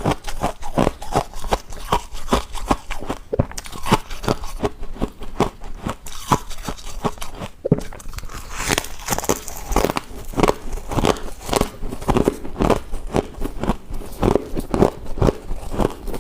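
Close-up crunching and chewing of frost-coated ice from a deep freezer, rapid crisp bites and crunches a few times a second.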